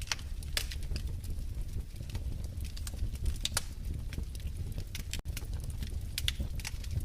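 Wood fire crackling in a fireplace: irregular sharp pops and snaps over a steady low rumble of the flames, with a split-second dropout about five seconds in.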